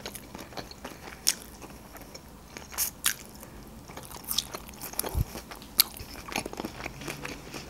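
A mouthful of fresh rice-paper spring roll being chewed, with irregular wet mouth clicks and a few sharp, louder smacks, and one low thud about five seconds in.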